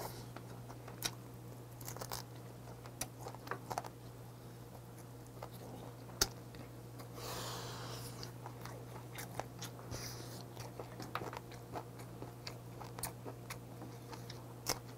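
Close-miked eating sounds of boiled pheasant meat being chewed and picked off the bone: small wet mouth clicks and chewing, with a brief slurp about seven seconds in as meat is sucked off a bone. A faint steady hum runs underneath.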